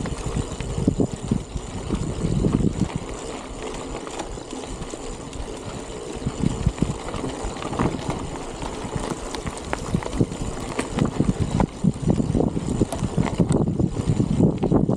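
Strong wind buffeting the microphone during a bicycle ride, a gusty low rumble that swells and drops irregularly.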